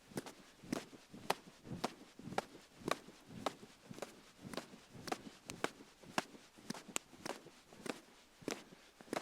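Wood campfire crackling, with sharp pops and snaps coming about twice a second.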